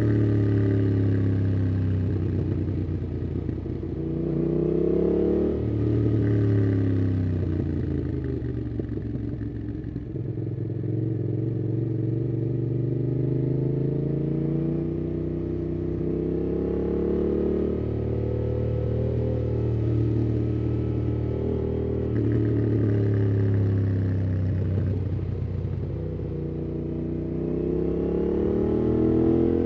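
Yamaha MT-07's parallel-twin engine through a MIIV aftermarket exhaust with a dB killer, ridden on the road. The engine note climbs and drops repeatedly as the rider accelerates, shifts and rolls off, holding a steady cruise for a while in the middle.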